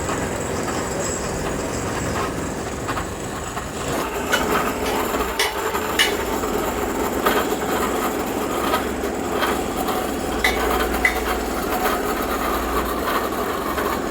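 Workshop machinery running steadily in a scrap-metal factory, with scattered sharp metal clanks from about four seconds in.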